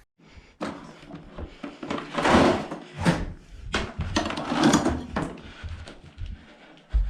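A series of irregular knocks and bangs with noisy rustling bursts, loudest a couple of seconds in and again near the five-second mark.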